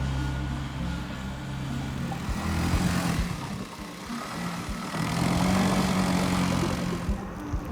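Motor traffic: a low, steady engine hum at first, then vehicles passing, swelling about three seconds in and again around five to seven seconds.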